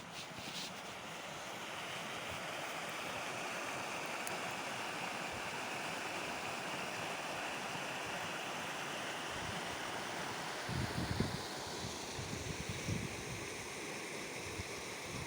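Steady rushing of flowing water, like a waterfall or fast stream. From about two-thirds of the way through, gusts of wind buffet the microphone with low rumbles.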